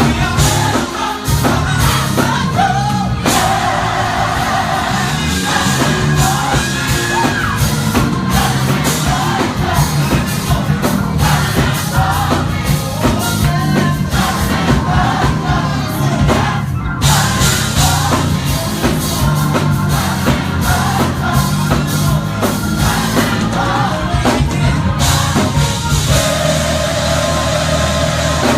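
Live gospel choir singing with a full band, steady bass and drums underneath, and voices whooping and shouting over it.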